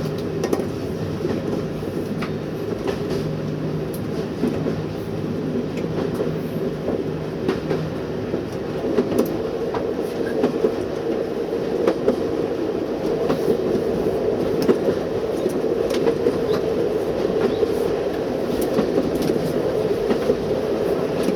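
Train running along the line, heard from the driving cab: a steady rumble and hum of wheels on rail, with scattered clicks from rail joints.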